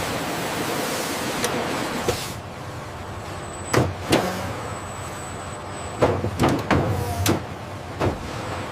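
Factory machinery sounds: a steady hiss for about two seconds, then a run of sharp mechanical clanks and clicks, several close together.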